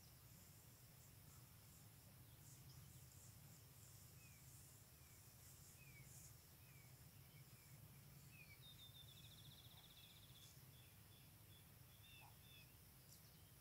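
Near silence with faint birdsong: a run of short chirps, then a brief fast trill about nine seconds in, over a low steady background hum.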